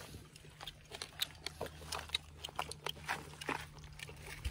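Close-up chewing of cooked squirrel meat: wet mouth clicks and small irregular crunches over a faint steady low hum.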